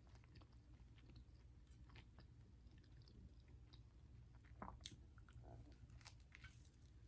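Faint chewing of a toasted bacon and egg sandwich, with scattered soft mouth clicks.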